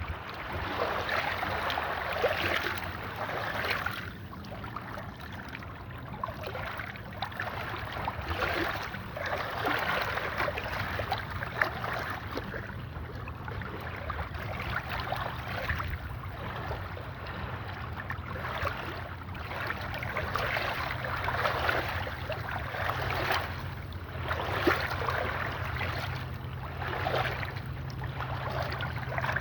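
Bukhan River water washing against the bank in repeated surges every two to three seconds, with a faint low steady hum underneath.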